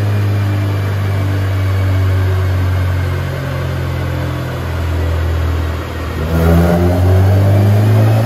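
2006 Honda Civic Si's K20Z3 four-cylinder running on a chassis dyno, breathing through a Skunk2 Alpha header and 3-inch exhaust. It holds a steady engine speed at first. About six seconds in it gets louder and its pitch starts a slow climb under load: the start of a wide-open-throttle dyno pull.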